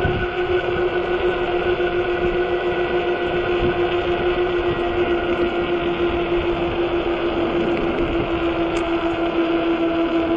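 A 48 V fat-tire e-bike running at steady speed: a steady whine that sinks slightly in pitch near the end, over a low rumble of wind on the microphone.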